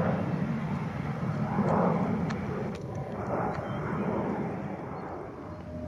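Airliner engine noise: a steady, noisy rumble with a few slow swells in loudness.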